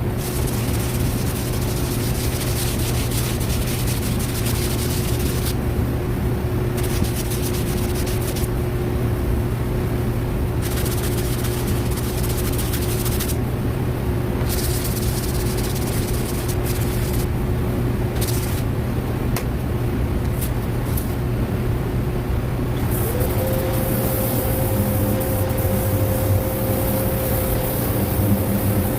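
A motor runs steadily, its hum stepping up a little in pitch about two-thirds of the way through. On-and-off patches of scraping hiss run over it.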